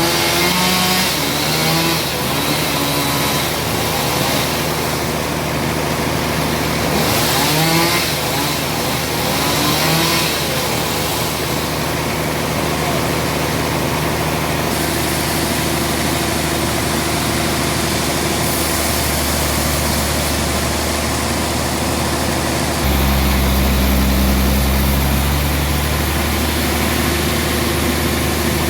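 Engine-driven sawmill machinery running steadily. Its note drops about two-thirds of the way in, and it gets louder a few seconds later.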